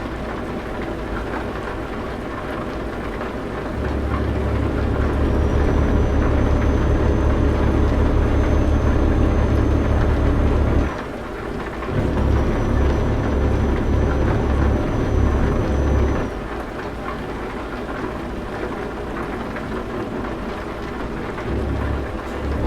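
Truck engine running with a continuous low rumble. It grows louder about four seconds in, dips briefly near eleven seconds, picks up again, and eases back around sixteen seconds. A faint high whine accompanies the louder stretches.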